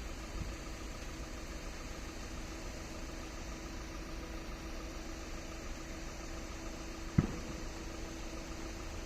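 Steady hum of an idling vehicle, with a low rumble and a constant tone. A single sharp thump comes about seven seconds in.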